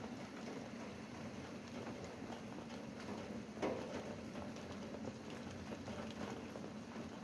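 Rain falling steadily, with scattered drops tapping close by and one louder tap about three and a half seconds in.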